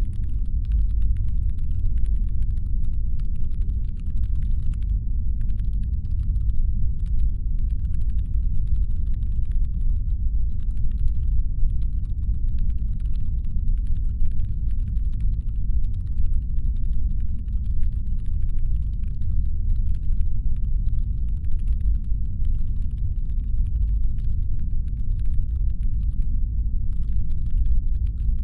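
Steady deep brown-noise rumble, presented as a spaceship's engine hum. Over it runs a faint layer of rapid clicking, like typing on a computer keyboard, that comes in stretches of a few seconds with brief pauses.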